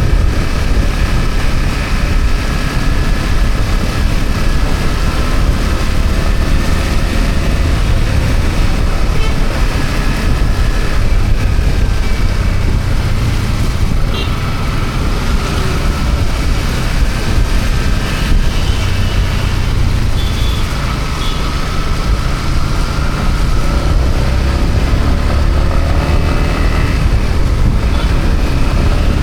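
Yamaha MT-15's single-cylinder engine running at a steady road speed, under a dense, steady low rumble.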